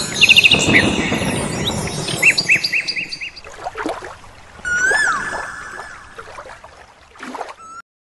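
Birds chirping: a quick series of short, rising chirps over a rushing noise that fades out by about three seconds, then a single longer whistled call about five seconds in, and a few faint calls near the end.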